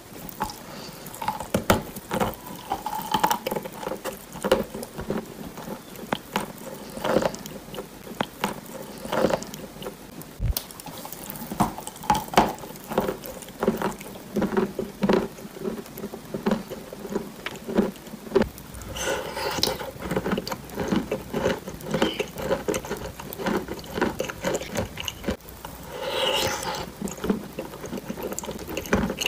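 Close-miked eating sounds: a chalky, powdery block being bitten and chewed, with many small crackling clicks and wet mouth smacks. Denser, wetter chewing comes twice in the second half.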